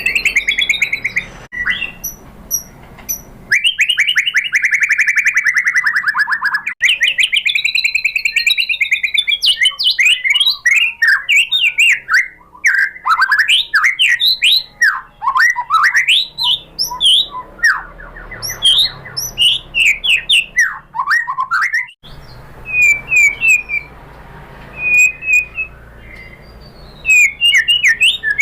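White-rumped shama singing a long, varied song: a fast trill that falls in pitch, then rising-and-falling trills and quick runs of sweeping notes, ending in short repeated chirps with brief pauses between phrases.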